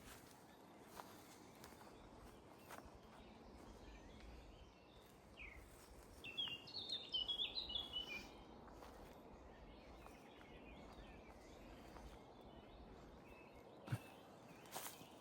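Quiet woodland ambience with a short burst of songbird song about halfway through: a quick jumble of high notes lasting about two seconds. A single sharp click near the end.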